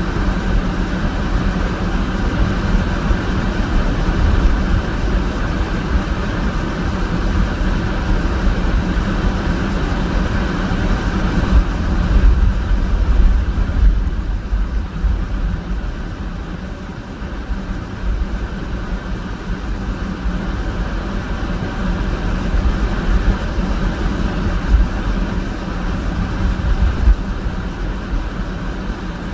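Car driving on snowy roads: steady engine and tyre noise with a heavy low rumble that swells and eases a little.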